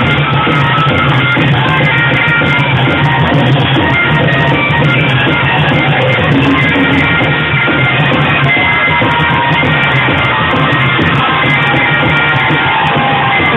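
Loud, continuous band music in a rock style, played without a break.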